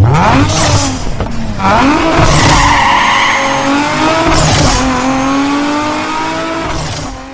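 Audi 80 B4 2.0 E's four-cylinder engine pulling hard through the gears on its exhaust: a quick rising rev, a drop at a shift about a second in, a climbing pull, another shift about four seconds in and a slow climb, fading near the end.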